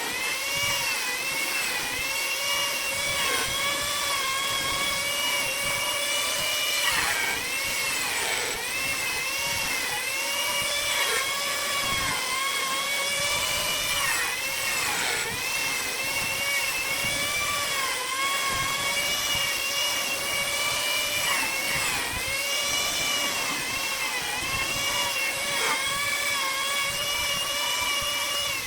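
Electric power tool motor running at high speed with a steady whine. The pitch sags briefly and recovers every few seconds as the tool is loaded against the work.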